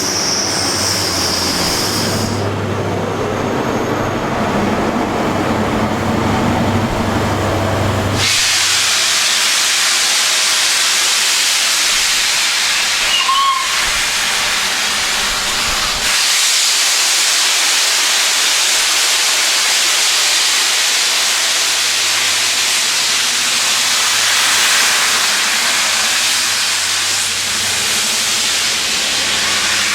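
Steam locomotive LNER A1 Pacific 60163 'Tornado': a high squeal stops about two seconds in, a low rumble follows, and about eight seconds in steam starts blowing off in a loud, steady hiss.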